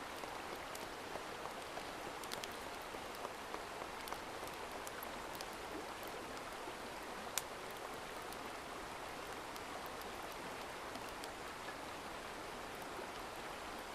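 Steady water noise with scattered light ticks and one sharper click about seven seconds in.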